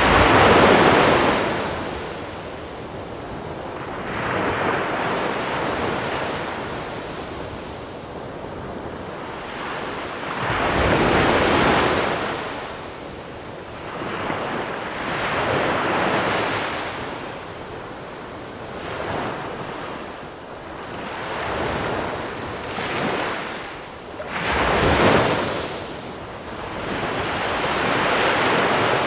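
Sea waves breaking on a shore of small pebbles, each surge of wash rising and falling every few seconds, about eight times.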